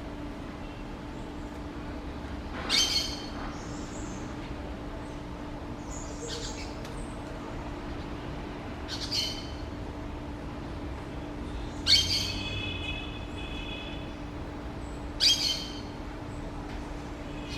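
A bird calling: four loud, short, high calls a few seconds apart, with a couple of fainter calls between them, over a steady low hum.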